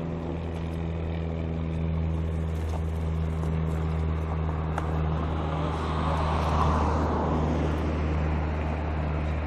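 Road traffic: a steady low engine hum, with a car passing by about six to seven seconds in.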